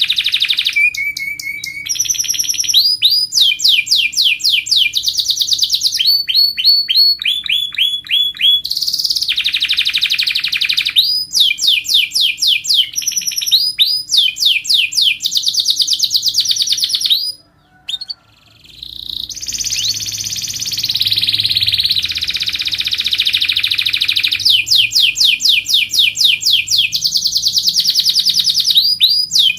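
Domestic canary singing: long rolls of rapidly repeated, rising chirps, one roll running into the next, with a brief break a little past halfway. This is the loud, non-stop song of a 'gacor' canary, used to lure other canaries into singing.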